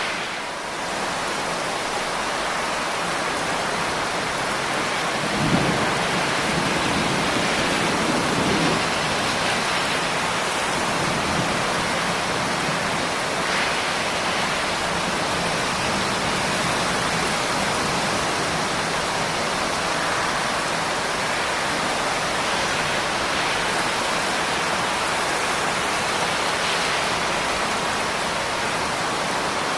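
Steady, heavy rain falling as a continuous hiss. About five seconds in, a low rumble of thunder rises sharply and rolls on for a few seconds.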